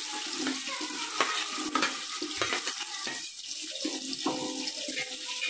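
Onions sizzling as they fry in hot oil with whole spices for biryani, with scattered clicks and knocks of a spoon stirring the pot.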